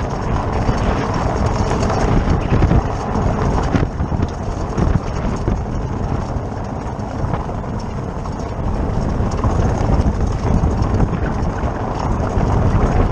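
Car on the move with steady road and wind noise and a metallic rattle from the wheel hub bearing area, heard as many short irregular knocks.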